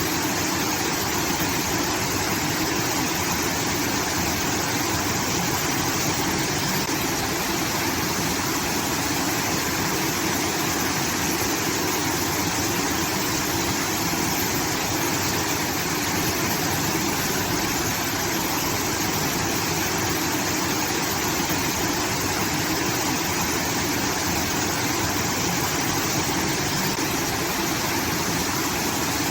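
Water from a rice-field irrigation system pouring steadily, a constant rushing like a small waterfall.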